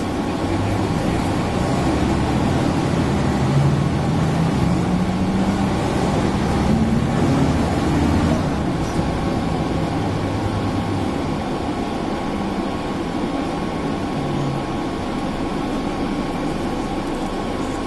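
Mercedes-Benz O405N city bus under way: the engine's note climbs as the bus accelerates, peaks about eight seconds in and drops back, then runs steadily. The air conditioning hums along with it, with a steady high tone throughout.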